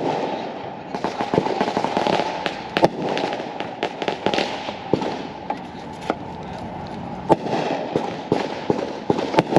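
Fireworks going off: a continuous crackle with many sharp bangs at irregular moments, the loudest about three seconds in and again past the seventh second.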